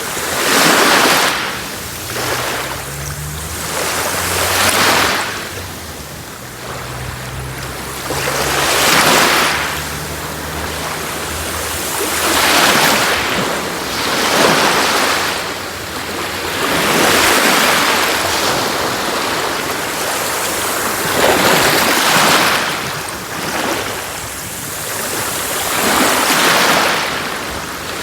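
Sea waves breaking and washing on a shore, the surf rising and falling in repeated swells every three to five seconds.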